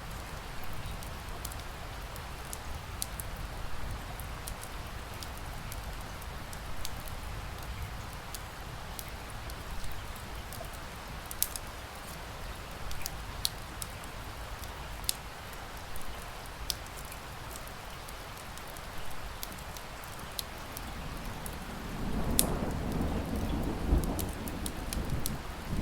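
Steady rain with the sharp, scattered pops and crackles of a burning wood fire. A low rumble of thunder builds near the end.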